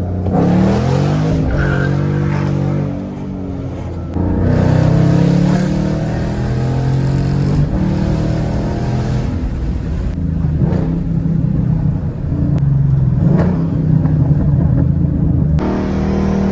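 2013 Mustang GT's 5.0-litre V8 through a resonator-deleted exhaust (factory headers, cats and H-pipe, aftermarket axle-backs), revving hard as the car accelerates. The engine note climbs and drops back several times, and the sound changes abruptly near the end.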